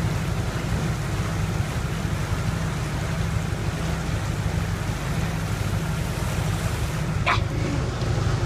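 Wind buffeting the microphone: a steady low rumbling rush over an even hiss. About seven seconds in, a brief high whistle-like call is heard once.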